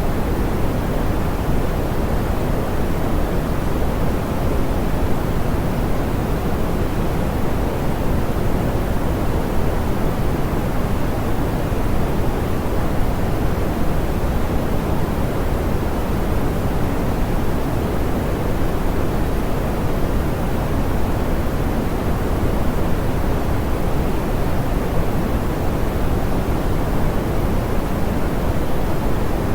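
Steady, smooth pink noise: an even hiss weighted toward the low end, with no changes or events.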